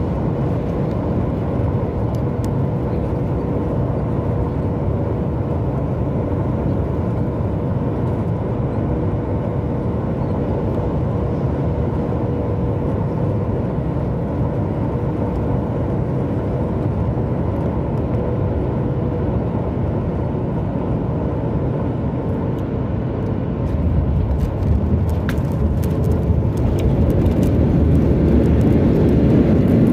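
Steady rushing cabin noise of a Boeing 737 MAX 8 airliner in flight on its approach, with a faint steady hum. About 24 seconds in, the low rumble grows louder and stays up, with a few light clicks.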